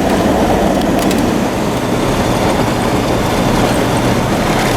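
Vehicle driving on a dirt steppe road, heard from inside: a loud, steady rumble of tyres and engine.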